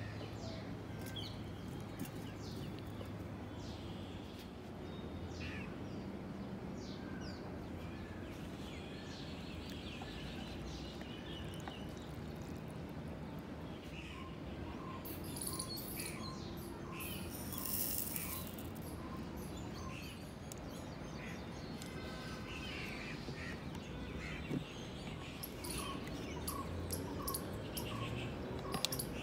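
Birds chirping and calling, with many short high chirps. In the second half one bird repeats a short, lower note less than a second apart for several seconds. A couple of light knocks come near the end.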